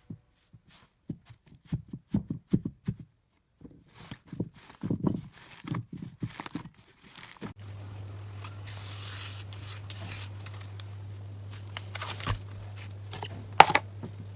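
Slime being squeezed and pulled by hand: irregular sticky crackles and snaps with short gaps between them. From about halfway a steady low hum runs underneath, with a few sharper snaps near the end.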